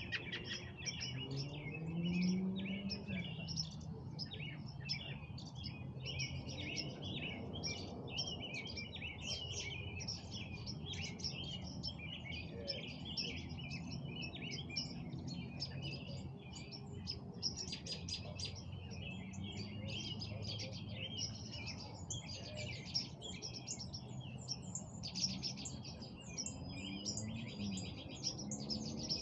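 A dawn-chorus-like tangle of many songbirds chirping and trilling continuously, calls overlapping with no pause.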